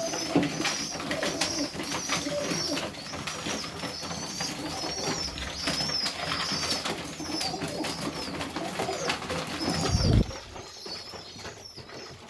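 Serbian highflyer pigeons cooing, with a run of high-pitched squeaks from young pigeons, the squeakers' begging calls. A single low thump about ten seconds in.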